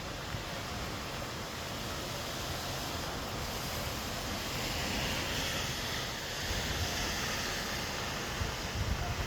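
Steady rushing of flowing floodwater, with wind buffeting the microphone; the rush grows a little brighter partway through.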